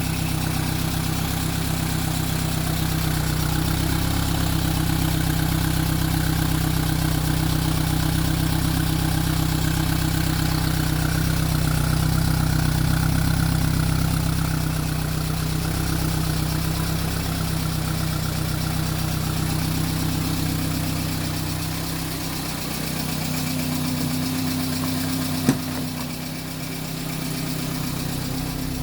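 Talbot Horizon 1.1's Poissy four-cylinder engine idling steadily. About three-quarters of the way through, its note shifts and a higher hum comes in, with a single sharp click soon after.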